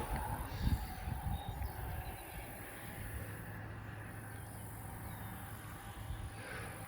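Thunderstorm wind gusting, buffeting the microphone with a low rumble that is strongest in the first couple of seconds, then easing to a steadier, quieter rush.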